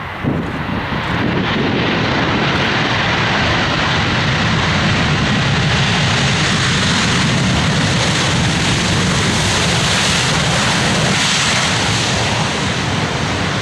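Airliner's engines passing close by: a loud, steady rushing noise that builds within the first second, holds, and fades near the end.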